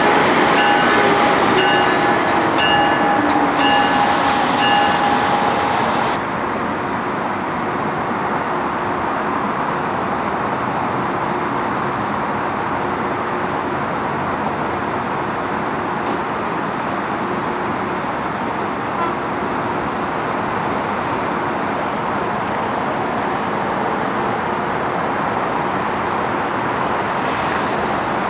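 Passenger train at the station platform: a high squealing tone with a falling whine stops about six seconds in, leaving a steady rumble of the standing train for the rest.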